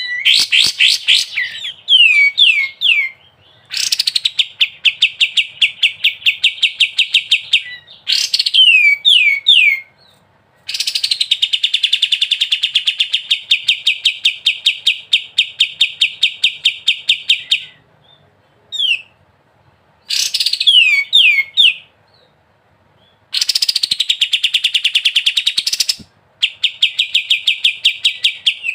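Kapas tembak songbird singing in the rapid 'ngebren' style. It gives long rattling trills of quick, evenly repeated high notes lasting several seconds each, broken by short runs of quick downward-sliding whistles and brief pauses.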